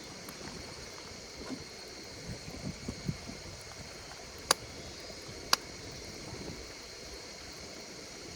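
Wood fire crackling, with soft low crackles and two sharp pops about a second apart, over insects singing in steady high tones.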